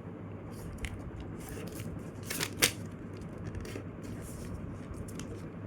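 A sheet of paper rustling and being creased by hand as it is folded, with a short, sharper crinkle about two and a half seconds in.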